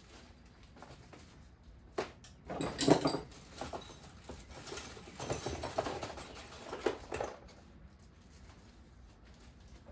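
Irregular rustling and small knocks from parts being handled, starting with a sharp knock about two seconds in and going on for about five seconds, loudest soon after it starts.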